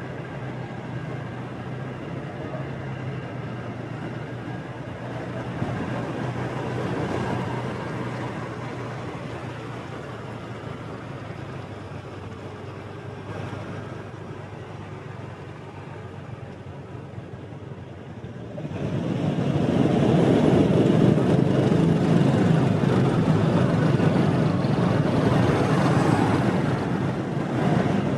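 Motorbike riding through city traffic: a steady low engine hum with road and traffic noise, which jumps sharply louder and rougher about two-thirds of the way in and stays loud.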